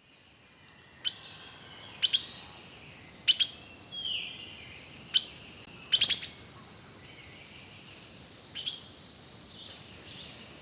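Bird chirping: short, sharp chirps every second or so, a couple of them doubled, over softer background bird calls.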